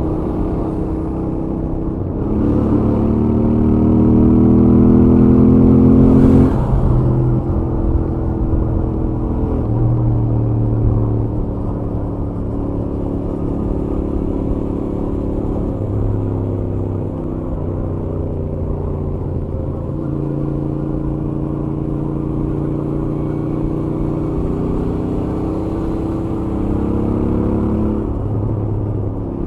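Royal Enfield Interceptor 650's parallel-twin engine through its stock exhaust, ridden on the highway. It rises in pitch under acceleration for a few seconds, drops sharply about six seconds in, then runs at a steady cruise with small rises and falls in revs.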